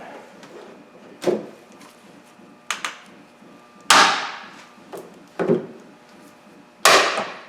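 Fuel rail and injectors being rocked and pulled up out of the engine: a series of about six sharp clunks and knocks, the loudest about four seconds in and again near the end.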